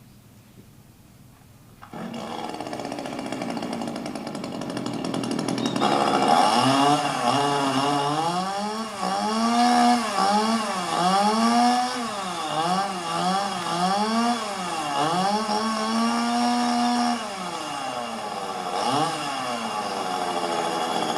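Chainsaw starting up about two seconds in, then revved again and again so its pitch rises and falls, cutting off at the end.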